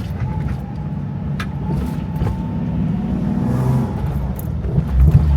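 Nissan 370Z's 3.7-litre V6 engine running as the car pulls away, heard from inside the cabin, growing louder toward the end.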